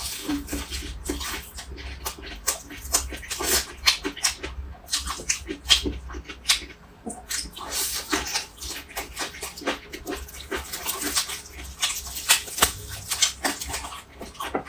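Noisy eating: rapid, irregular chewing and crunching clicks that go on throughout.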